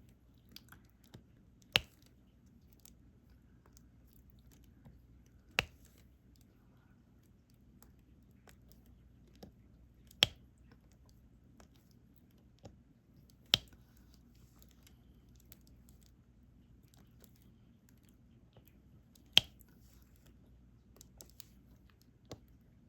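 Diamond painting stylus picking up resin drills and pressing them onto the adhesive canvas: five sharp clicks a few seconds apart, with fainter ticks between them.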